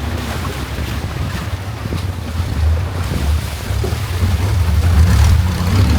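Longtail boat's engine running at a steady drone while under way, with water rushing past the hull and wind buffeting the microphone.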